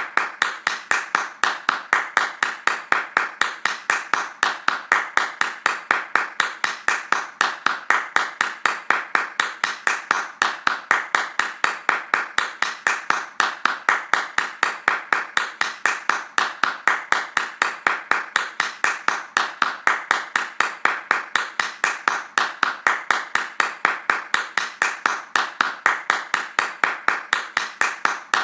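Hands clapping fast in a steady, even rhythm of about four to five claps a second.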